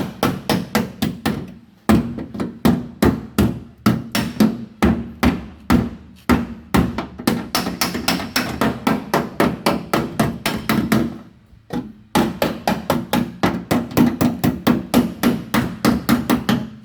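Hammer blows on the sheet-metal rear fender of a Toyota Yaris, knocking out a deep dent: quick, ringing strikes at about four to five a second, with a short break about two thirds of the way through.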